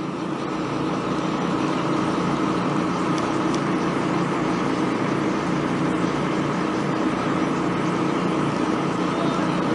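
An engine running steadily at a constant speed, building up over the first second and then holding level.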